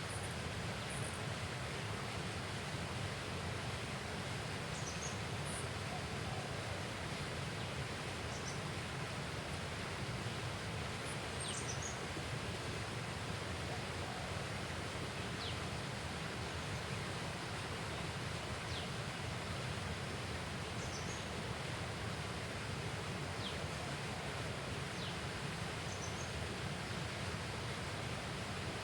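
Steady outdoor ambience: an even, unbroken hiss, with scattered brief high chirps scattered across it.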